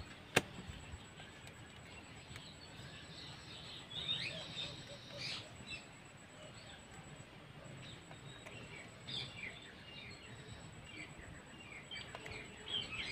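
Birds chirping in the background, many short calls, with a single sharp click about half a second in.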